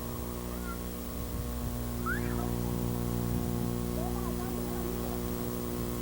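A steady low hum made of several even tones, with a few faint, short, high gliding calls about two and four seconds in.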